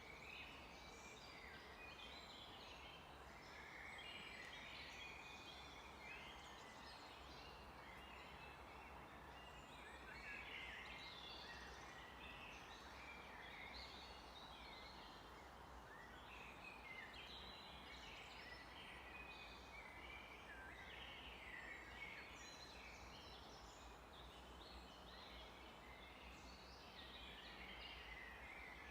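Faint chorus of many songbirds singing at once, overlapping chirps and trills without pause, over a steady low background hiss.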